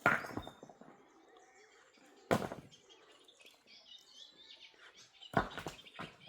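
Three sharp knocks, about two and a half to three seconds apart, each dying away quickly, with faint bird chirps between them.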